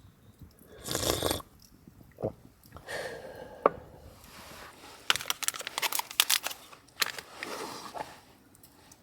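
Close handling noises: a short rush of noise, then sharp clicks, a quick run of clicks and knocks, and a scrape or crunch.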